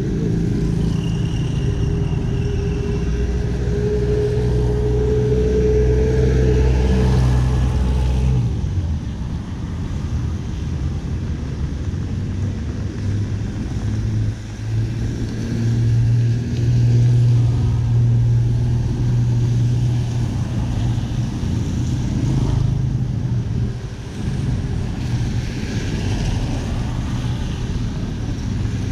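City street traffic: motor vehicle engines running close by as a steady low hum. One engine's hum drops away about eight seconds in, and another grows loud from about fifteen to twenty-two seconds in.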